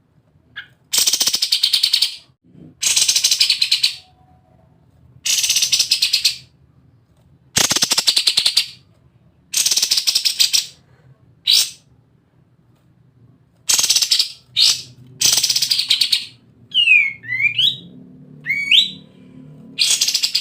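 Kapas tembak songbird singing its 'ngebren' song: about one-second bursts of very rapid, machine-gun-like rattling, repeated roughly every two seconds, with a few quick whistled glides near the end.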